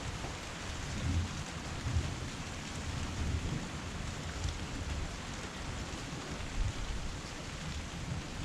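Heavy rain falling steadily, with an uneven low rumble underneath that swells a few times.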